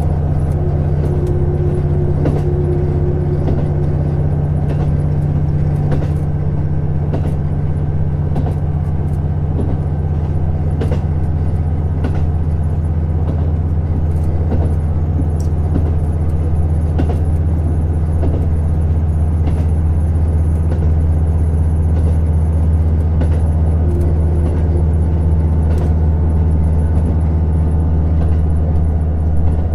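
KiHa 150 diesel railcar heard from inside the cabin while running: a steady low diesel engine drone with wheel-on-rail rumble and scattered light clicks and rattles.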